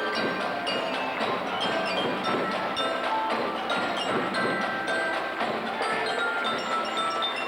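Music led by tuned percussion: a quick run of short, bell-like mallet notes over light, steady percussion.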